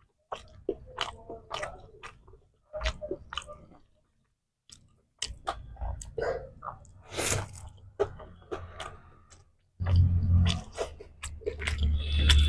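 Close-miked eating: chewing and biting with crisp crunches and wet mouth clicks in short clusters. There is a short pause about four seconds in and heavier low bumps near the end.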